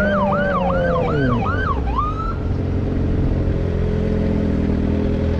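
Police siren giving about six quick rising-and-falling yelps that stop about two seconds in. Under it a motorcycle engine drops in pitch as it slows, then settles to a steady idle.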